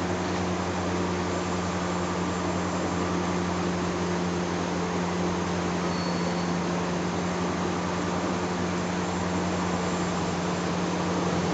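Steady mechanical hum with an even hiss, unchanging throughout; no hammer blows.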